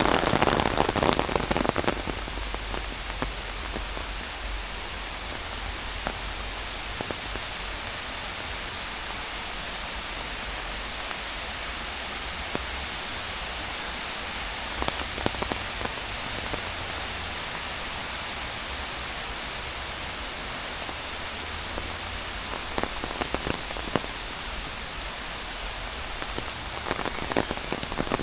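Heavy rain falling steadily, louder for the first couple of seconds and again near the end, with a few scattered taps.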